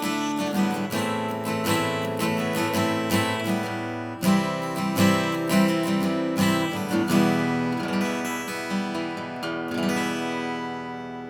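Steel-string acoustic guitar being played: a run of picked notes and strummed chords, with a harder strike about four seconds in. The last chord rings out and fades near the end.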